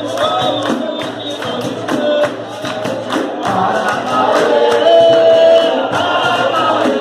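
Capoeira music: a group of voices singing together over a steady beat of hand percussion with jingles, like a pandeiro. A sung note is held longer about five seconds in.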